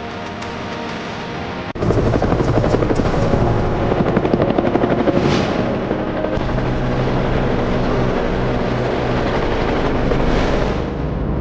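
Music, cut off abruptly about two seconds in by a loud, steady helicopter rotor and engine.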